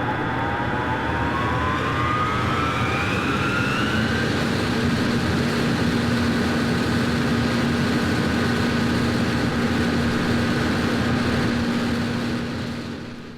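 A loud steady rushing noise with a machine-like whine that rises in pitch over the first few seconds, then settles into a steady low drone; the whole sound fades out near the end.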